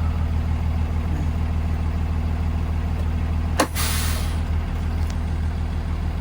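2020 Blue Bird Vision school bus running with a steady low engine drone. A little past halfway there is a sharp click, then a short hiss of escaping air from the bus's air system that fades in under a second.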